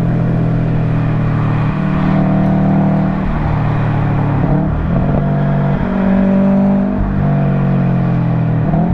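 Subaru WRX STI's turbocharged flat-four heard through an Invidia Q300 exhaust, loud and close to the tailpipe, driven hard with the engine note holding steady and then stepping to a new pitch about half a dozen times as the throttle and revs change.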